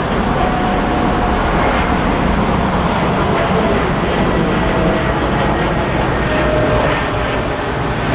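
Jet engines of a Boeing 787-9 airliner running, a loud steady rush with faint thin whining tones in it.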